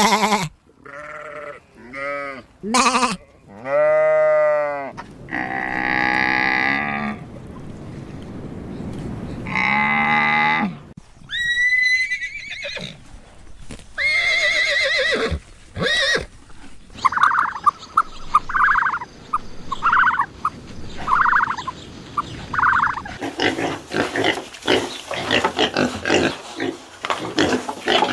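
A succession of different livestock calls, one clip after another: a few short arching calls at first, then longer drawn-out calls, a high gliding call, a run of short repeated calls, and several animals calling over each other near the end.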